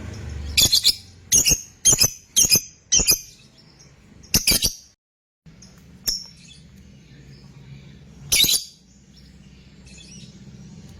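Lovebird giving short, shrill chirps: a quick run of about six in the first five seconds, then two more spaced further apart.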